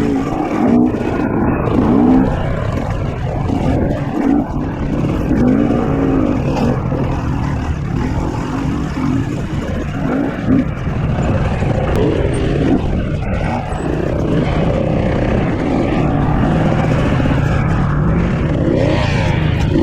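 KTM 250 XC-W two-stroke dirt bike engine running, its revs rising and falling again and again as the throttle is blipped.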